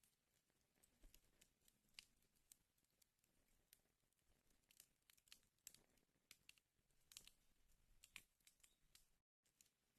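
Wood fire burning in a fireplace, faintly crackling with irregular small pops and snaps. The sound cuts out completely for a split second about nine seconds in.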